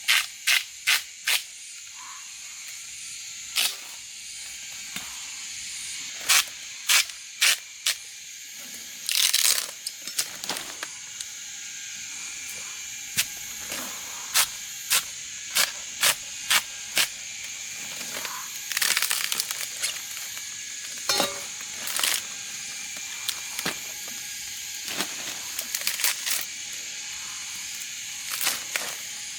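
Sharp knocks and cracks in irregular clusters, some in quick runs of three or four, with a couple of longer rustling scrapes, over a steady high-pitched buzz.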